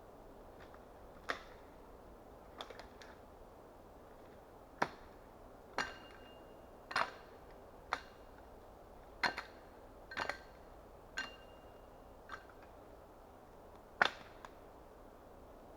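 An axe striking wood: about a dozen sharp, irregularly spaced chops, a few with a brief metallic ring.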